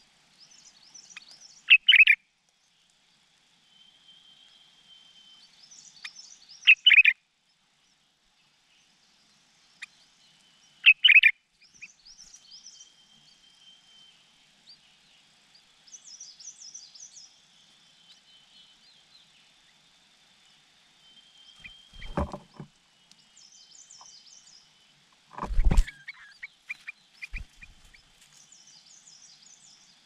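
Birds at a nest: high begging chirps from nestlings, with three short, loud calls in the first half, about every four to five seconds. Two dull knocks or rustles come about two-thirds of the way in and again shortly after.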